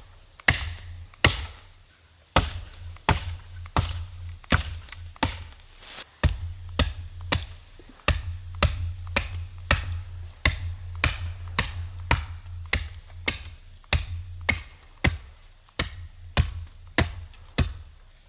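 Repeated chopping strikes of a hand tool into wood, about one and a half a second in an even rhythm, with a short pause near two seconds in and near six seconds in. Background music with a deep bass runs underneath.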